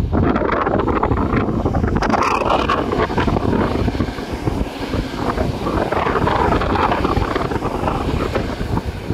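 Strong wind buffeting the microphone: a loud, continuous, gusty rumble.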